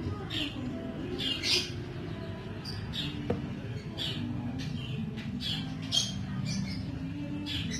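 Canary chicks cheeping: short, raspy high calls repeating irregularly about twice a second, over a steady low hum.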